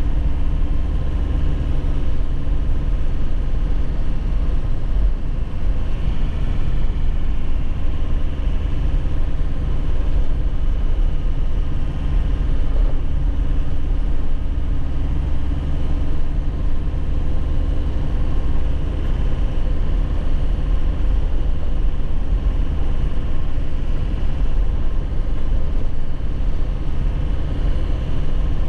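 2001 Nissan Cabstar 106Le light truck's diesel engine running at a steady pitch while driving, with road noise underneath.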